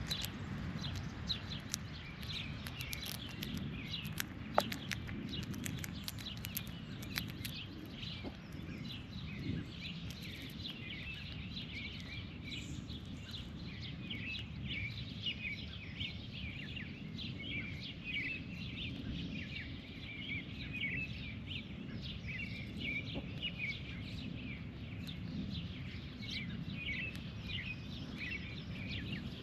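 Many small birds chirping continually in short, quick notes over a steady low background rumble, with a few sharp clicks in the first several seconds.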